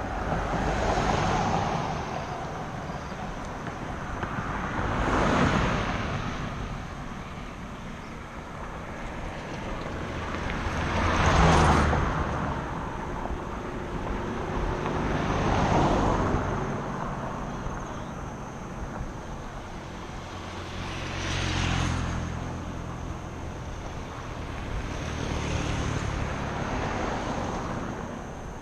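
Road traffic: a run of vehicles passing close by one after another, about six swells of tyre and engine noise over a steady road rumble.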